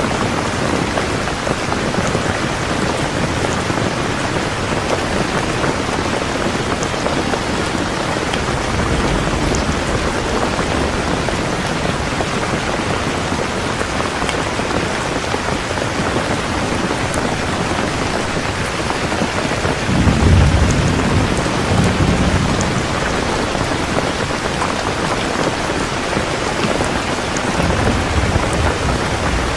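Heavy rain falling steadily, with rolls of thunder: a weaker rumble about nine seconds in, a loud one about two-thirds of the way through, and another shorter one near the end.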